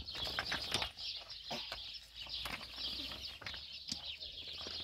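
Many birds chirping at once, a dense high chatter with scattered short clicks.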